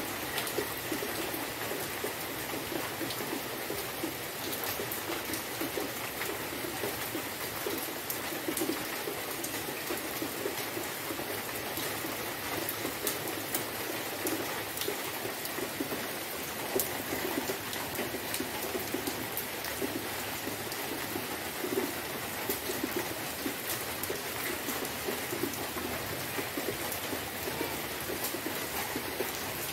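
Rain falling steadily onto standing water, a constant patter with many small drop ticks.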